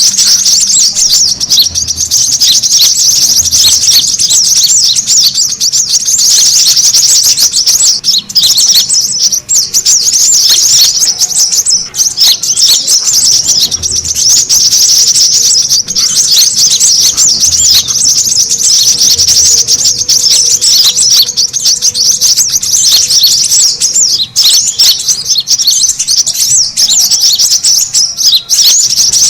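Brown-throated sunbirds chattering noisily in a dense, unbroken stream of rapid, high chirps and trills. This is the busy chatter used as a lure call to draw other birds in.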